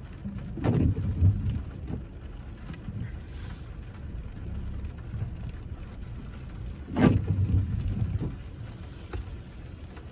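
Inside a moving car in the rain: steady low road and engine rumble with rain on the car, and two louder thumps, about a second in and about seven seconds in.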